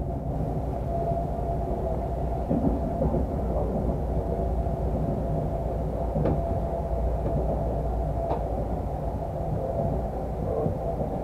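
Steady rumble inside a moving Moscow Central Circle electric train carriage, with a few faint clicks over the rails.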